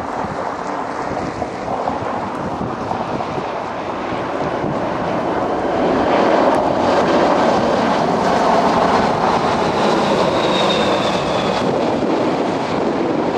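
Lockheed L-1011 TriStar airliner on its arrival, the jet engines making a broad rumble that swells louder about halfway through, with a faint high whine near the end. Wind buffets the microphone.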